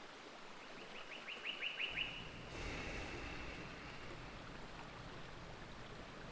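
A bird call: a quick run of about ten short, falling chirps that speed up and grow louder, ending about two seconds in, followed by a brief rush of noise, over a steady outdoor ambience hiss.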